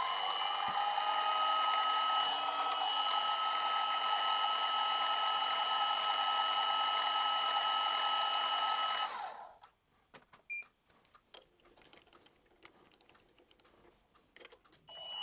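Milling machine spindle motor spinning up and running with a steady whine while an edge finder is used, then switched off about nine and a half seconds in. Small clicks and taps follow in the quiet, and the motor starts up again near the end.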